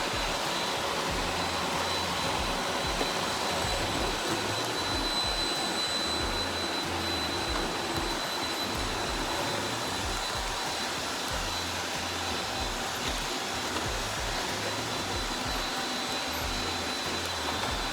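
Robot vacuum cleaner running steadily: a continuous whirring with a thin high whine and a rhythmic low pulsing underneath.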